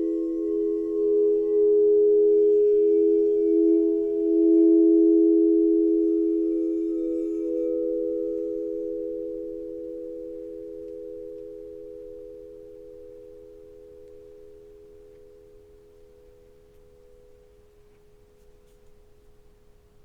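Several singing bowls ringing together in steady, pure tones that waver and beat against each other. They swell briefly twice early on, then slowly fade out over about fifteen seconds until only a faint hum is left.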